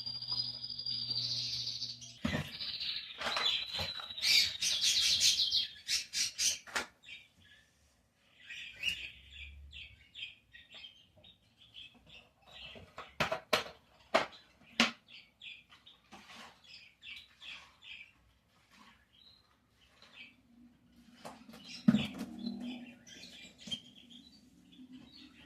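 Songbirds singing and chirping: a loud trilling song for the first six seconds or so, then scattered short chirps. Several sharp knocks and clatters come in between, the loudest about 22 seconds in.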